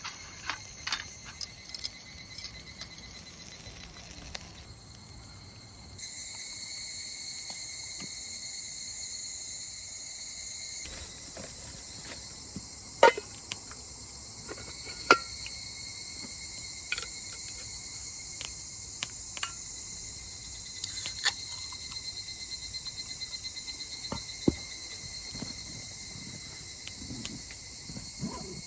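Steady high-pitched insect chorus of crickets trilling, with scattered sharp clicks and taps, the loudest about 13 and 15 seconds in.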